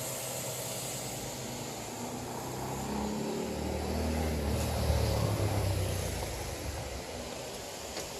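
Low engine rumble of a passing vehicle, swelling to its loudest about five seconds in and then fading away, over a steady background hiss.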